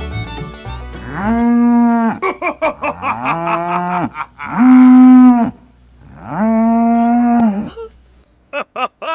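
A cow mooing three times, each call about a second long. Background music ends just after the first second, and a run of quick clicks falls between the first two moos.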